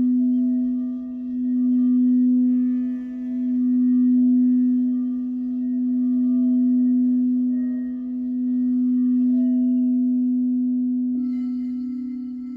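Crystal singing bowls: one bowl holds a steady low hum that swells and fades in slow waves. About eleven seconds in, a second bowl joins with a brighter, higher ring, and the two tones beat against each other.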